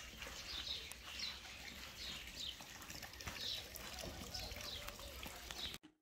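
Small birds chirping, short high notes repeating about twice a second, until the sound cuts off suddenly near the end.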